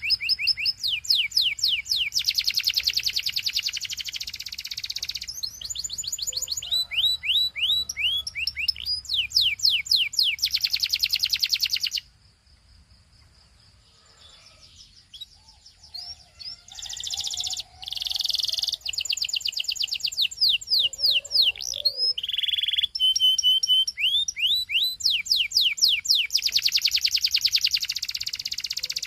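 Male canary singing: fast rolls and trills of repeated high, down-slurred notes. About halfway through the song stops for a few seconds, then starts again with more rolls and a few short held notes.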